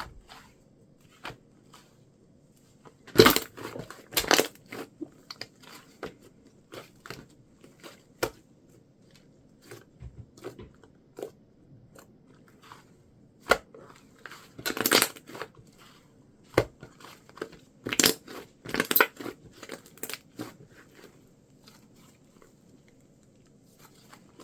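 Gray clay slime being squeezed and pressed by hand, giving scattered small crackles and crunches, with louder bursts of crunching about three seconds in, around the middle and again about eighteen seconds in.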